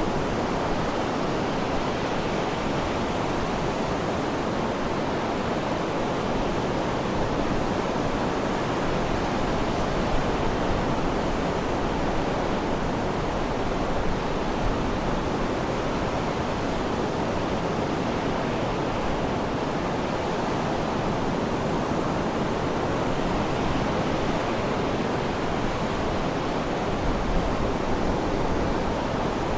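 Sea surf washing in a steady, unbroken rush of noise, with no distinct wave breaks or bird calls standing out.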